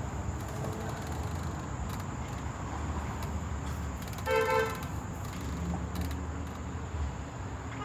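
A single short car-horn toot about four seconds in, over a steady low rumble.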